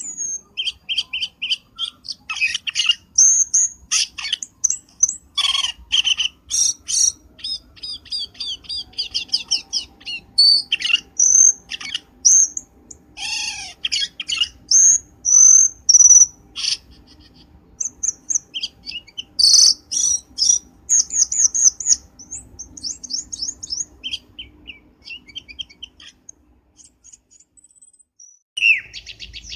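Cucak keling song played as a bird-trapping lure call: a rapid, busy run of high chirps, trills and whistled notes that thins out and briefly stops near the end before one more short call.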